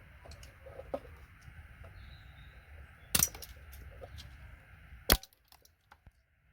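Two sharp snaps, about three seconds in and again about five seconds in, with small clicks and taps between, from pulling gold-plated pins out of a computer cable connector.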